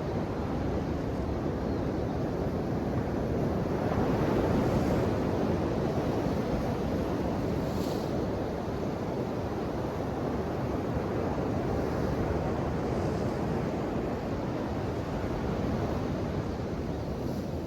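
Ocean waves breaking and washing on the shore in a steady rush, swelling a little about four seconds in.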